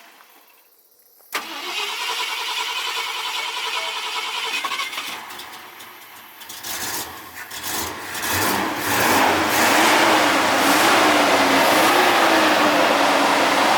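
1969 Ford F-250's engine, fed by a rebuilt Autolite 2100 carburetor, starting up. A steady mechanical sound begins suddenly about a second in, and from about seven to nine seconds the engine picks up speed into a loud, steady run with a slightly wavering note.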